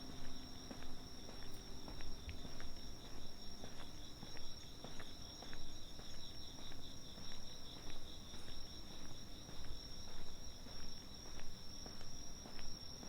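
Night insects trilling without pause, one in a steady high trill and another in a fast pulsing trill just below it, over the walker's footsteps on pavement at about two steps a second.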